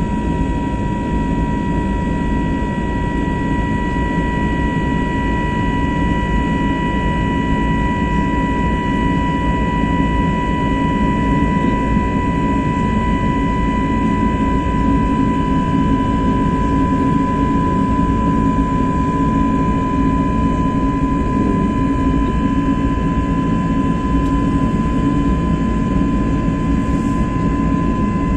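Airbus A321neo's CFM LEAP-1A turbofan engines running steadily: a low rumble with a steady high whine on top.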